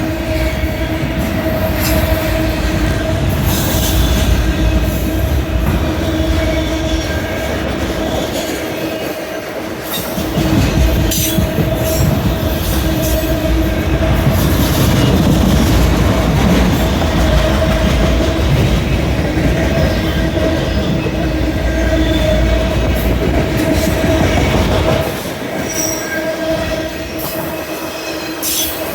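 Freight train rolling past, steel wheels clacking over the rail joints, with a steady wheel squeal and a heavy rumble.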